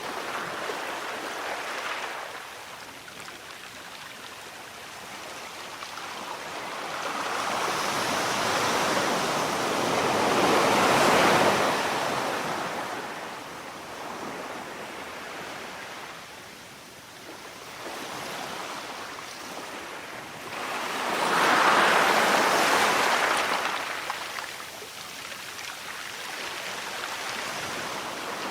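Sea waves breaking and washing ashore in slow swells, two large waves surging about ten seconds apart with quieter wash in between.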